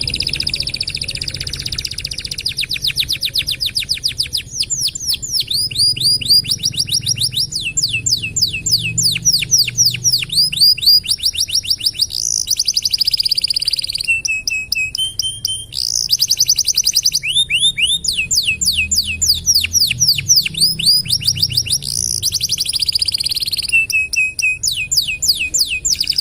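Domestic canary singing continuously in long rolling trills: rapid runs of repeated falling notes that change speed and pitch every second or two, between held high buzzy phrases.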